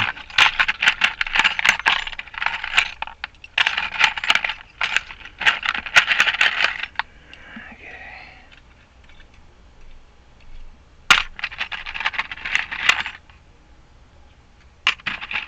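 Loose metal key blanks clinking and rattling against each other as they are rummaged through. They go in two spells of dense clicking with a quiet stretch of a few seconds in the middle, and start again briefly near the end.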